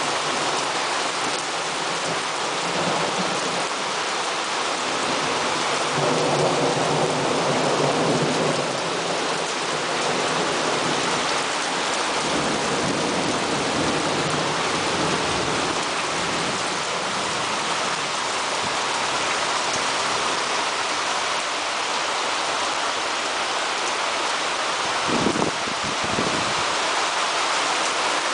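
Heavy rain pouring steadily in a thunderstorm, with a low rumble of thunder swelling about six seconds in and a brief thump near the end.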